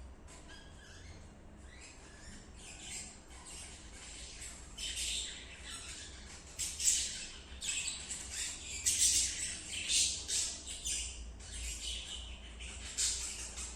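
Budgerigar giving harsh squawks and chirps in a rapid, irregular series. The calls are sparse at first and get busier and louder after about four seconds.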